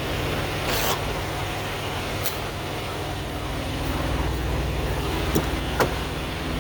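Semi truck's diesel engine idling steadily, with a short rustling burst about a second in and a few sharp clicks and knocks, two of them close together near the end.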